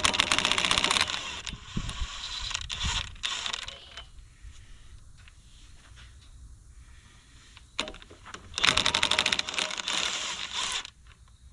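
Ratchet wrench clicking rapidly as bolts are turned, in two spells: about the first second, and again for about two seconds near the end. A few knocks of metal between them.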